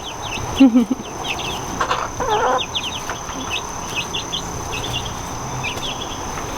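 Baby chicks peeping over and over in short, high, falling cheeps, with a lower call from an adult hen just after the start and another about two seconds in.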